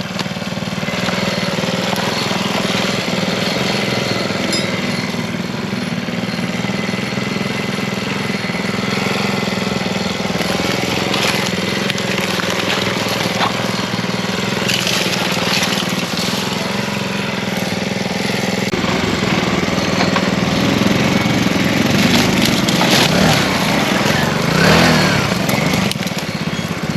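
Mini bike engine running steadily, with a few brief crackles over it around the middle and near the end.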